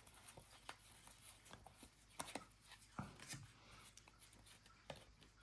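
Faint, scattered soft clicks and rustles of football trading cards being flipped through and handled, a few sharper ticks a little after two seconds and at three seconds.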